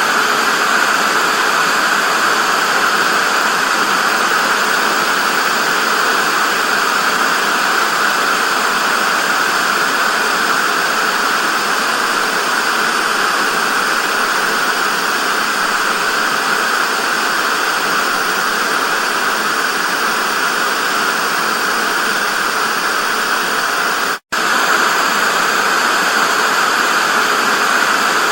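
Television static: a steady, loud hiss of noise, strongest in the upper-middle range. It cuts out for a split second near the end, then resumes unchanged.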